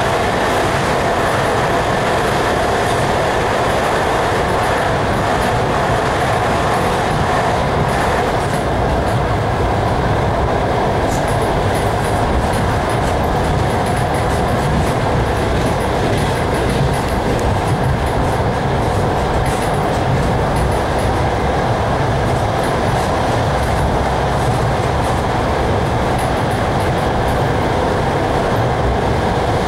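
Suburban passenger train running at speed, heard from inside the carriage: a steady rumble of wheels on the rails under a constant hum. In the first few seconds a container freight train passes close alongside on the next track.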